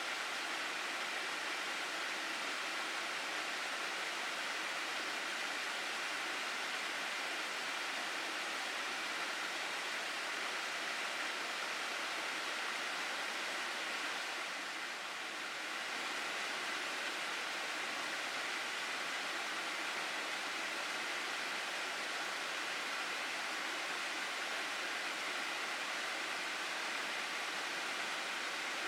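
Mountain gorge stream rushing steadily over rocks, a continuous wash of water that dips a little softer for a moment about halfway through.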